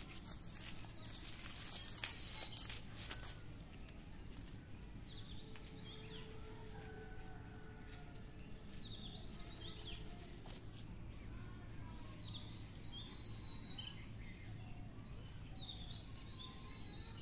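A bird repeats a short, high chirping phrase four times, about every three to four seconds, over a steady low outdoor background. A few sharp clicks come in the first few seconds.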